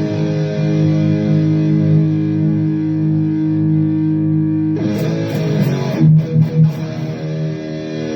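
Distorted electric guitar played through a Donner Arena2000 multi-effects pedal's amp and cabinet modelling with its intelligent noise gate on: a chord rings out for nearly five seconds, then a fresh strike, a few short choppy hits and another held chord.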